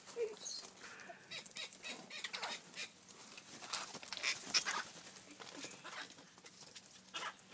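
Australian king parrots making short, scratchy calls, scattered irregularly with several close together.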